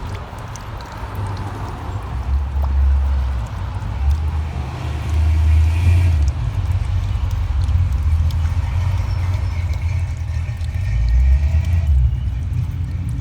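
Rainwater rushing through a pipe, heard as a low, uneven rumble that swells about halfway through and again near the end.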